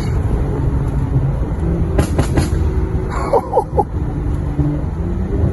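Straight-piped BMW N55 turbocharged inline-six in an F15 X5 running under way, with the muffler removed and a stage 2 tune. It gives a loud, steady low exhaust drone, broken by a few sharp cracks about two seconds in.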